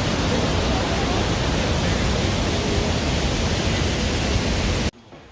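Steady roar of Tegenungan waterfall's falling water, cutting off abruptly near the end.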